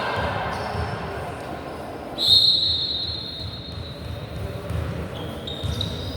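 A referee's whistle blows one steady, shrill blast about two seconds in, over repeated low thuds of a ball and feet on a hall floor. A fainter high tone comes near the end.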